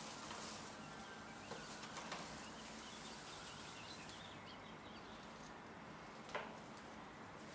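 Faint background noise with a few faint bird chirps, and a single sharp click about six seconds in.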